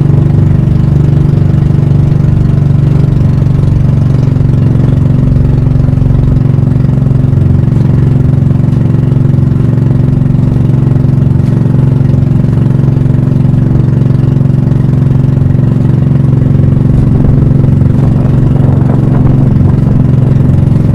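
Pump boat engine running steadily and loud, its even note holding with a slight change in tone about four seconds in.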